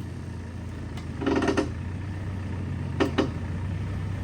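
An engine idling with a steady low hum, broken by two short louder sounds, one about a second in and a briefer one about three seconds in.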